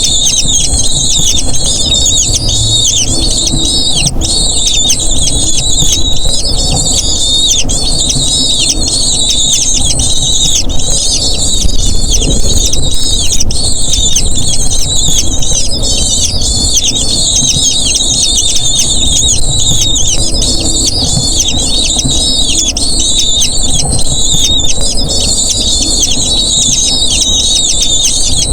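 Eagle chicks calling without a break, a dense stream of shrill, high-pitched squealing cries, many sliding down in pitch, the begging calls of young being fed.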